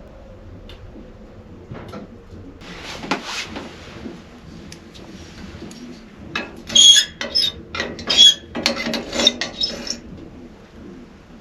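Handling noises: scattered knocks and clicks, a short scrape about three seconds in, and a busier run of sharp clicks and scraping from about six to ten seconds in.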